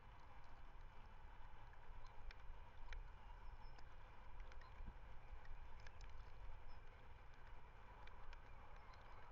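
Low wind rumble on an outdoor webcam microphone, with scattered faint clicks and a few faint high chirps over a steady hiss.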